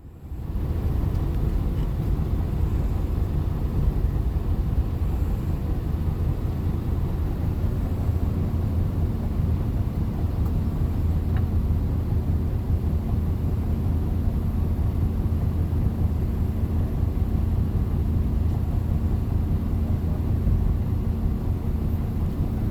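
Motor vehicle heard from inside the cabin while driving: a steady low engine and road rumble that comes up about half a second in and holds even.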